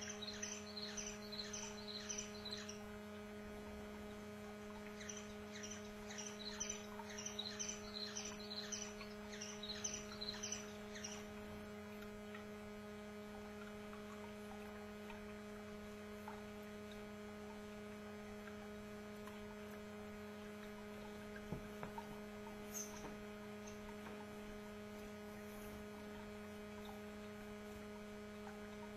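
Canary singing in two runs of quick repeated high chirps, the second a few seconds after the first and longer. After that there is only a lone chirp about three-quarters of the way in. A steady electrical hum runs underneath.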